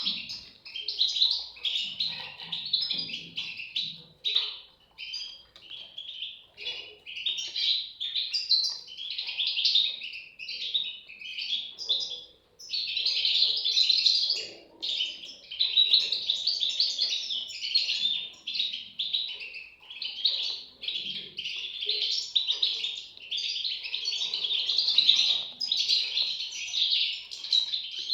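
European goldfinch chicks calling, a dense, nearly unbroken chatter of high chirps with a brief lull about halfway through.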